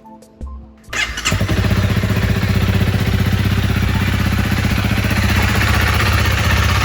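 Honda CRF300L's single-cylinder engine catching about a second in and running at a steady idle.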